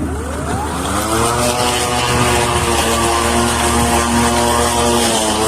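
Greenworks 40V brushless cordless lawn mower starting up: the electric motor and blade spin up with a rising whine over about the first second, then run at a steady whir.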